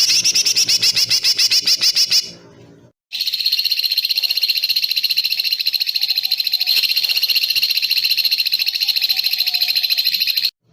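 Recorded animal calls: a fast, evenly pulsed high trill, then after a brief cut about 3 s in a second steady rapid trill that stops abruptly near the end, two separate recordings spliced together.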